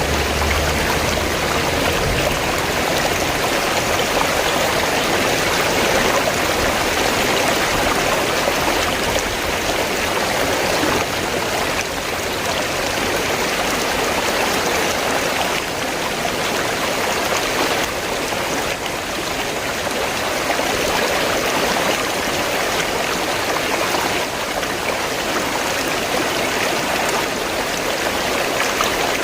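River water flowing and rushing steadily, an even, unbroken sound of moving water.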